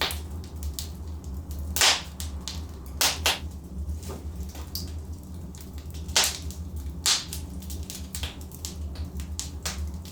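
Logs burning in a fireplace, crackling with frequent small snaps and about five louder pops, over a steady low rumble.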